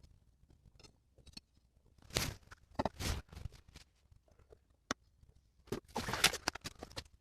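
Irregular knocks and scraping of objects being handled, in two clusters, one about two seconds in and one about six seconds in, with a single sharp click between them.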